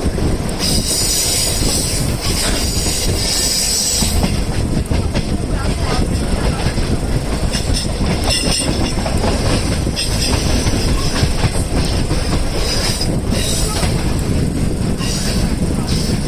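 Train running on the rails with a steady rumble and wheel clatter. High-pitched wheel squeal comes and goes several times.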